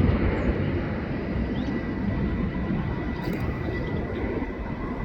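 Jet airliner engine noise: a steady broad rumble that eases a little over the first second.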